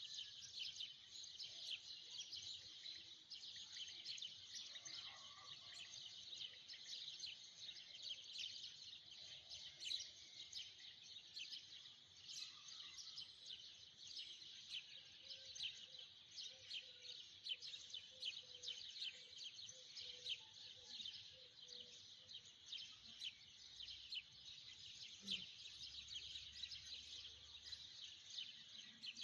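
A dense, continuous chorus of many small birds chirping, faint and high-pitched.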